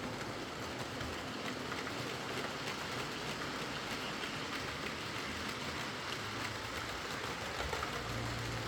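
Heljan Class 23 OO gauge model diesel locomotive running on its track, a steady whirr of motor and gears after a service with split gears replaced. A low growl comes and goes, fading early and returning near the end; the model is known to growl loudly going round corners, which the repairer puts down to the motor and how it is mounted.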